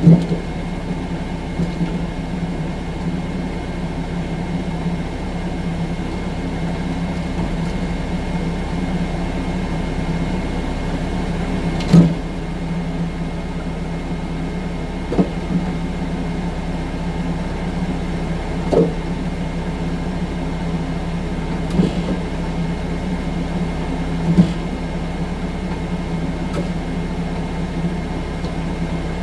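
Tracked skid steer loader's engine running steadily at a constant pitch, with a handful of sharp clunks at intervals.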